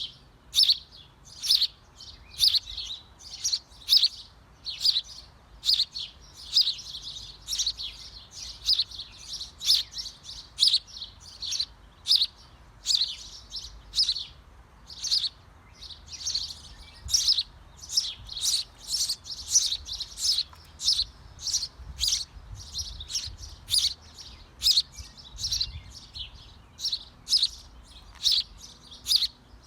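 A small bird chirping over and over: short, high, sharp chirps about once or twice a second, at an even pace.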